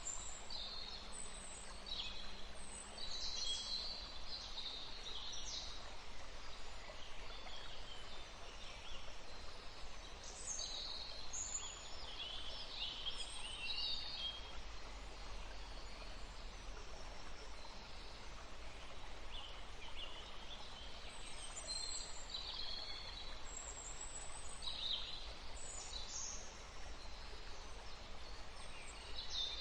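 Small birds chirping: many short, high-pitched calls in irregular clusters, over a steady background hiss.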